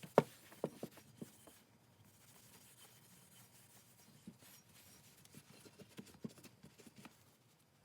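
Parts of a Stanley Bailey No. 5 jack plane being handled and fitted together by hand: a few sharp clicks and knocks in the first second or so, then fainter scattered taps.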